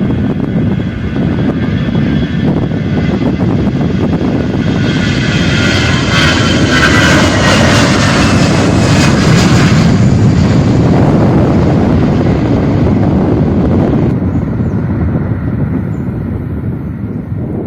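Jet airliner engines passing close by: a loud rushing roar with a thin whine that slowly falls in pitch. It is loudest about halfway through, then fades.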